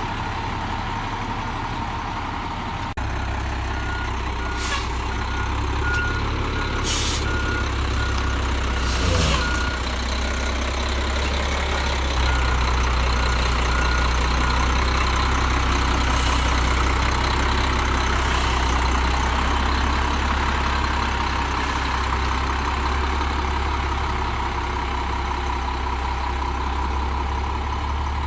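Peterbilt 320 garbage truck's diesel engine running steadily. A backup alarm beeps for several seconds in the first half, and a few short air hisses come through.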